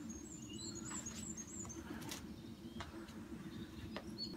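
A small bird singing a short run of high, quick chirps in the first couple of seconds, over a low steady outdoor background with a few faint clicks.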